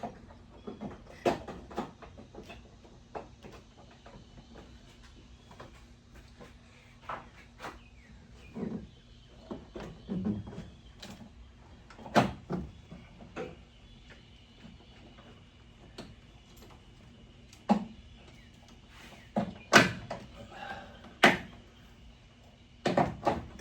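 Irregular knocks, clunks and scrapes of hands working on a car, such as cables and parts being pushed and handled around the firewall. The knocks come unevenly, with the loudest few in the last four seconds.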